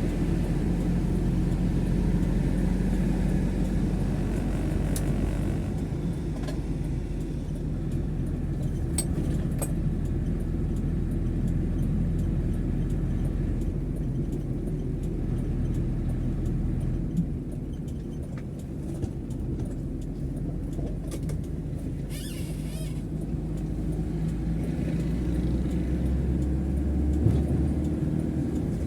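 Car driving on a city road: a steady low engine and road rumble, with a few faint clicks and a brief hiss about 22 seconds in.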